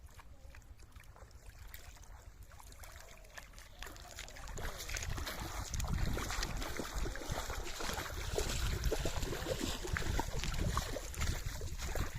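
Water sloshing and splashing, irregular and growing louder about four seconds in.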